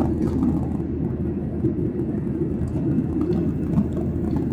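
Boeing 737-800 cabin noise heard from a passenger seat: a steady low rumble of the CFM56 jet engines and airflow.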